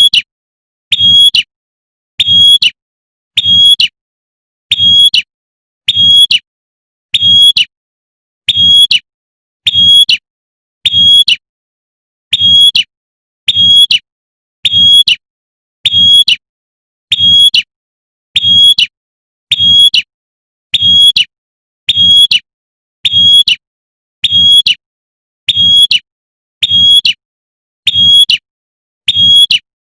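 A female prinia (prenjak) giving its sharp, high 'tembakan' call note over and over, about three notes every two seconds at perfectly even spacing with silence between: a looped lure recording meant to call in males.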